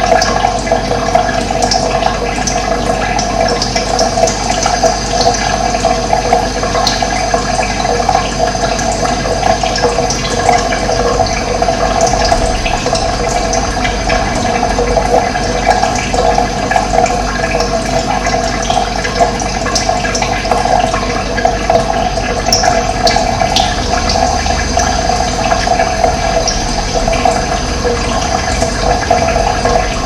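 Running water, a steady rushing flow, with faint scattered bird chirps above it.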